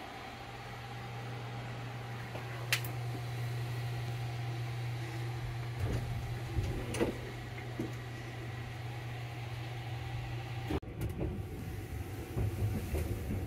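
Steady low hum inside a sleeper train compartment, with a few light clicks and knocks. About eleven seconds in, the hum stops abruptly and a low, uneven rumble takes over.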